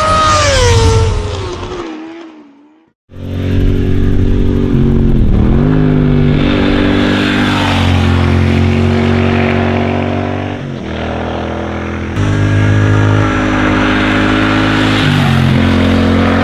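Triumph Thruxton RS 1200 cc parallel-twin motorcycle engine. It first runs with its pitch falling away and fades out, then after a short silence runs steadily under way. The pitch dips briefly and recovers about five seconds in and again near the end.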